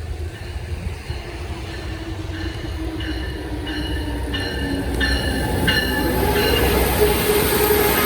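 A train approaching on the main line, its rumble growing steadily louder as it nears. A bell rings about once every two-thirds of a second through the middle, and hissing wheel noise builds near the end.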